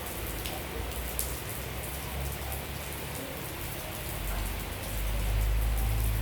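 Steady rain falling, with many separate drop hits ticking through it. A low rumble swells in from about four seconds in.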